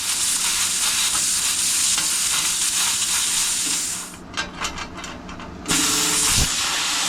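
Plasma cutter arc hissing steadily as it cuts through plate. It cuts out for about a second and a half just past the middle, then starts again; the torch is sticking and the cut is going badly.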